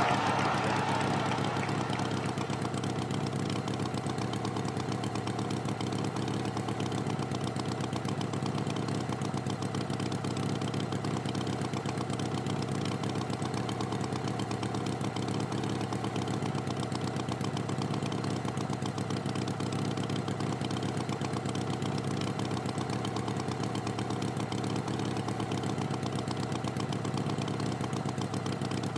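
Tractor engine idling steadily, with an even, rapid chug.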